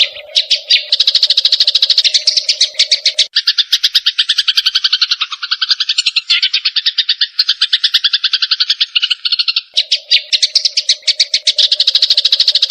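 Grey-cheeked bulbul (cucak jenggot) and Eurasian tree sparrows calling against each other in fast, unbroken chattering, many notes a second. A steady low drone sits underneath at the start and comes back near the end.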